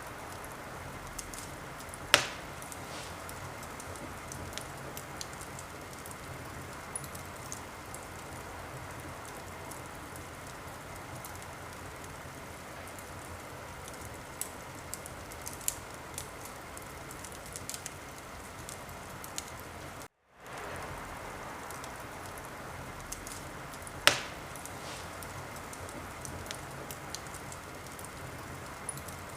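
Wood fire crackling: a steady hiss dotted with small snaps, and two loud single pops, one about two seconds in and one near the end. The sound cuts out for a moment about two-thirds of the way through and fades back in.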